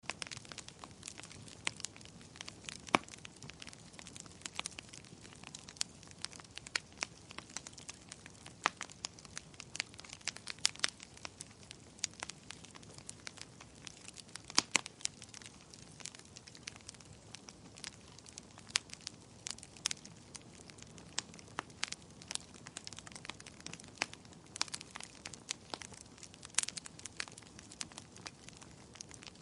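Wood fire crackling in a fireplace: irregular sharp pops and snaps over a low steady hiss, a few pops much louder than the rest.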